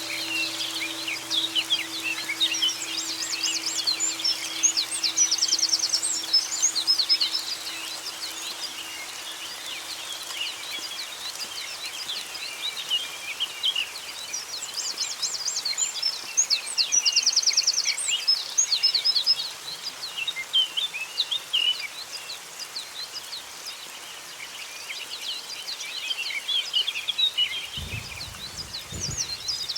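A dense forest bird chorus: many songbirds chirping and singing at once, with quick buzzy trills of rapidly repeated notes coming and going. A low, steady ringing tone fades away over the first dozen seconds, and a few low thuds sound near the end.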